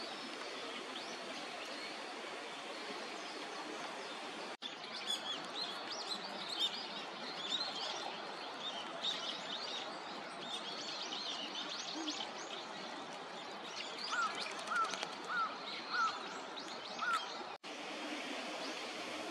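Small birds chirping and twittering over a steady outdoor hiss, with a row of five short, evenly spaced calls near the end. The sound cuts out briefly twice.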